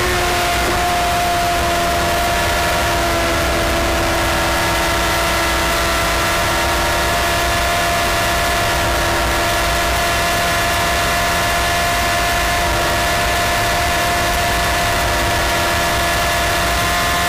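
Sport motorcycle engine running at a steady high-speed cruise under a strong rush of wind noise. Its pitch dips right at the start, then holds level and edges up slightly near the end.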